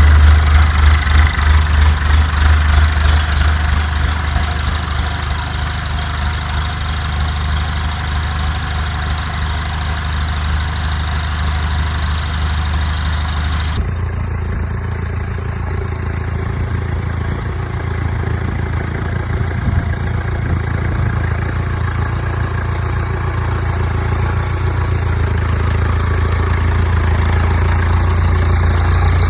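Tractor engine idling steadily, just started after a clutch rebuild. The owner says the rebuilt clutch works. About 14 s in the sound changes abruptly and turns duller, and it grows slowly louder toward the end.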